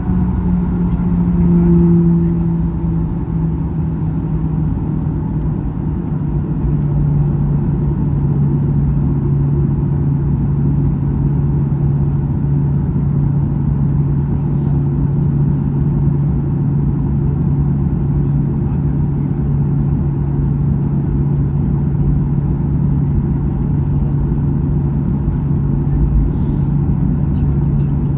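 Cabin noise of a Boeing 737-800 with its CFM56 jet engines running steadily, a low hum whose pitch steps down slightly about six seconds in, as the thrust is reduced.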